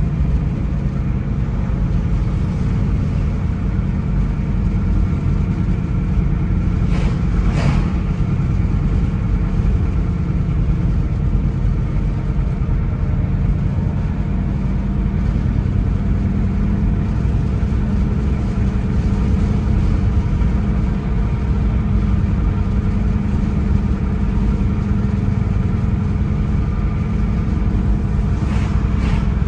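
Car driving on the road: a steady low rumble of engine and tyres, with a couple of brief sharper sounds about seven seconds in and again near the end.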